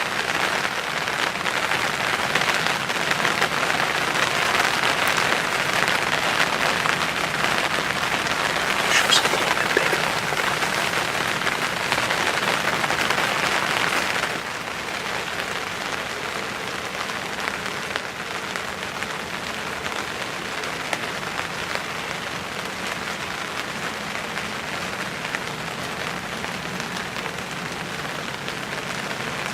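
Steady rain falling on and around a hunting blind; about halfway through it abruptly drops to a softer, quieter rain.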